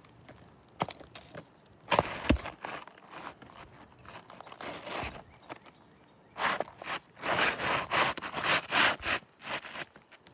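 A few sharp hammer knocks on roofing nails, the loudest two close together about two seconds in. Then a few seconds of rough scraping and crunching of asphalt shingles being worked, which rubs granules loose.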